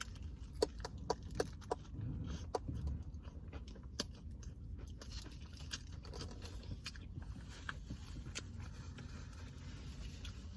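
A person biting into and chewing a thick, saucy chicken sandwich close to the microphone: wet mouth clicks and smacks, several in quick succession in the first two seconds, then scattered ones over a low steady hum.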